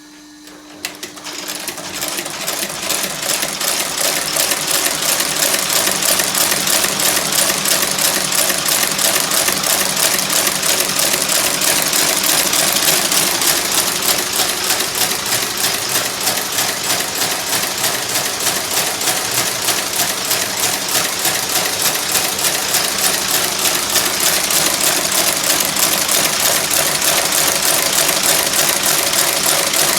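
Shoe outsole stitching machine sewing a sole, running with a rapid, even stitching rhythm. It starts about a second in and builds up to full speed over the next few seconds.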